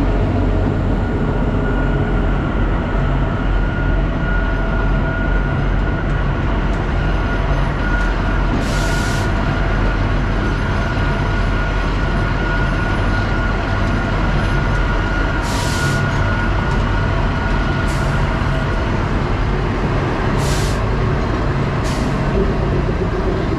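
Kalka–Shimla narrow-gauge train standing at a station, its engine running in a steady low drone with a thin whine over it. Four short sharp hisses of air break in across the second half.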